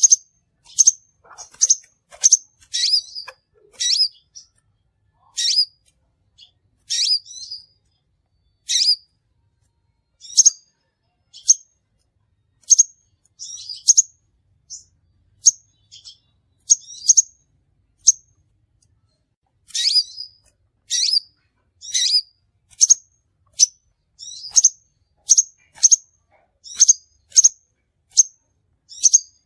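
Crimson sunbird giving short, sharp, high-pitched chirps in quick irregular runs, thinning out to scattered single chirps in the middle before picking up again. It is a lure-call recording of the bird.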